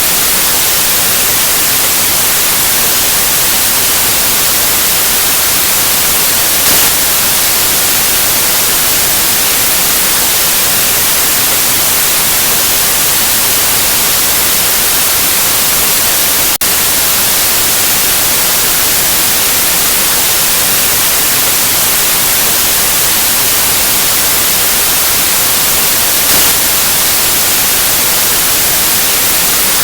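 Steady white noise: a loud, even hiss that spreads across the whole range and is brightest in the highs. It breaks for an instant a little past halfway, then carries on unchanged.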